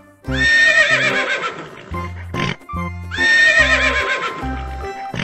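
A horse whinnying twice, each call starting high and held, then wavering and falling in pitch, over background music with a steady beat.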